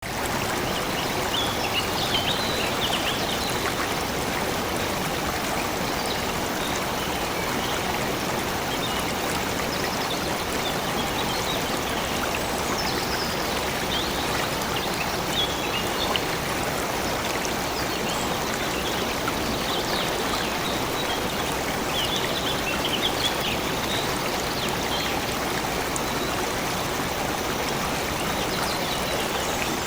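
Stream water flowing in a steady rush, with birds chirping now and then over it.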